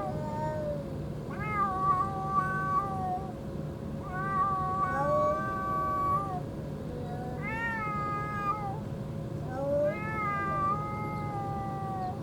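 A community cat meowing repeatedly: about five long, drawn-out meows, each a second or two long, with short pauses between them.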